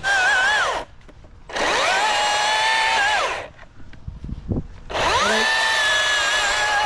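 Cordless electric chainsaw run in three bursts. Each time the motor spins up to a steady high whine, then winds down to stop between bursts.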